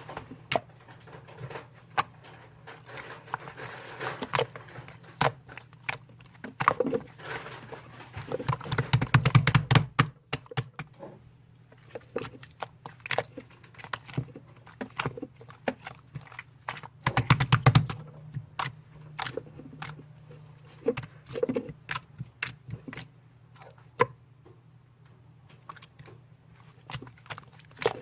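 Slime being squeezed, poked and folded by hand, giving irregular crisp clicks and pops of trapped air, with two denser flurries of squelching pops, about a third and two thirds of the way through.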